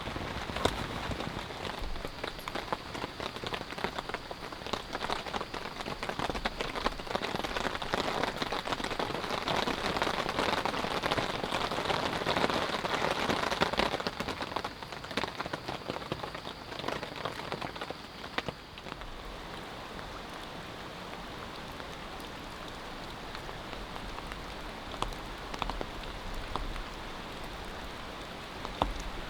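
Rain falling, a dense patter of many small drop ticks. It is louder at first and drops to a quieter, steadier patter about two-thirds of the way through.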